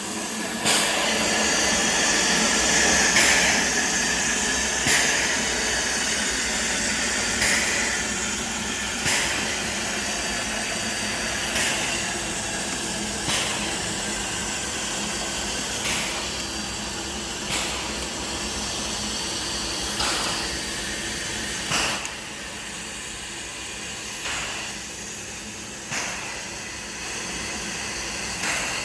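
Steam train running behind a Shay geared steam locomotive: a steady hiss of steam over a low rumble, with sharp clunks about every two seconds in uneven pairs. It gets a little quieter after about twenty seconds.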